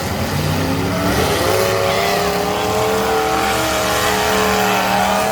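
Demolition derby cars' engines running and revving hard; from about a second in, one engine's note rises a little and then holds high and steady over the noise of the others.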